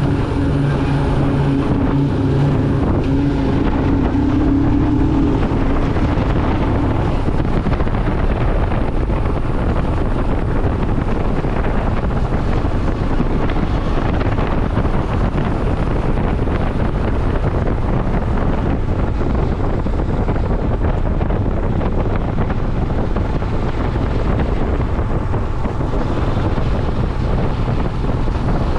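Motorcycle engine running steadily while riding, under heavy wind rushing over the microphone. The engine's hum stands out for the first several seconds and again near the end; in between the wind mostly covers it.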